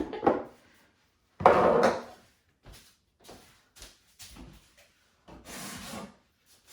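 A drawer or cupboard in a kitchen slid and knocked shut about a second and a half in. A few light clicks follow, then a short soft scrape near the end.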